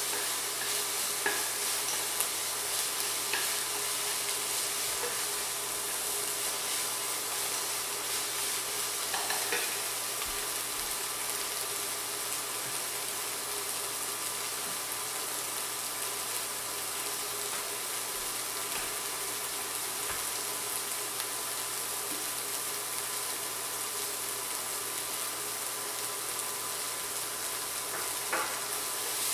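Chopped Chinese celery and dried tofu sizzling steadily as they stir-fry in oil in a stone-coated pot. A few light knocks and scrapes of chopsticks stirring come near the start, about nine seconds in, and near the end.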